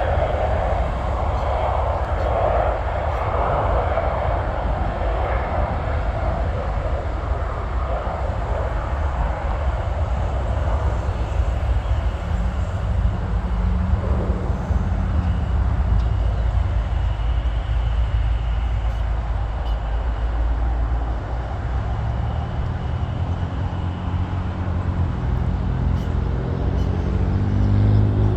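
Jet aircraft taking off and climbing away: a loud engine roar that fades over the first eight seconds or so into a steady low rumble. Near the end a rising drone builds up.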